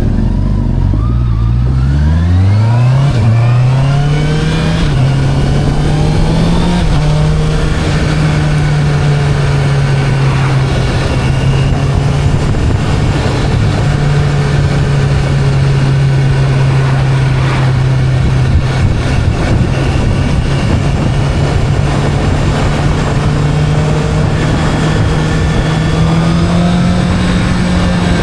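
Motorcycle engine pulling up through the gears in the first few seconds, its pitch rising with each gear, then settling into a steady cruising note under a constant rush of noise.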